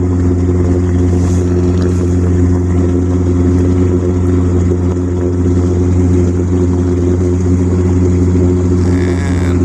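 Sailboat's engine running at a steady speed under way, a deep even drone.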